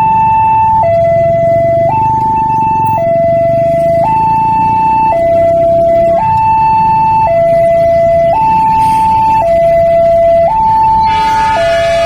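Two-tone electronic warning alarm, alternating between a high and a low tone about once a second, over a low rumble. Near the end a chord of several higher tones sounds along with it.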